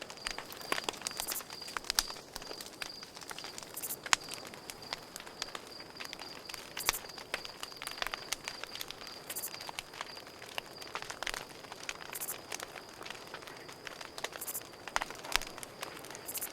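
Campfire crackling, with irregular sharp snaps and pops of burning wood, over a steady high cricket trill.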